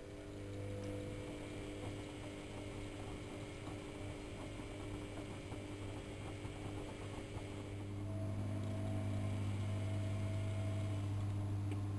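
AEG Lavamat L6461 washing machine running on a 95°C boil wash: a steady electric hum starts suddenly and steps up louder about eight seconds in.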